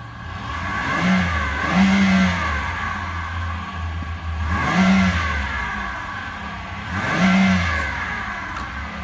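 2009 Chevrolet Impala's 3.5-litre V6 at idle, revved three times, each rev climbing in pitch and dropping back to idle.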